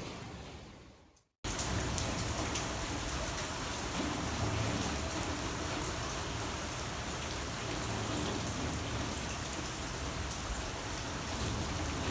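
Steady rain falling, an even hiss with scattered ticks of drops. The sound fades out to silence about a second in and cuts back in abruptly a moment later.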